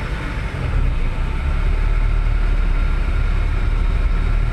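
Car engine running with a steady low rumble, a little louder from about a second in.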